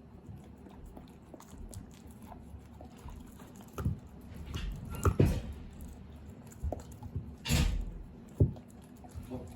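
Kai Ken dog gnawing and crunching a bear bone: irregular sharp cracks and thuds between quieter chewing, the loudest a little after five seconds in and again about seven and a half seconds in.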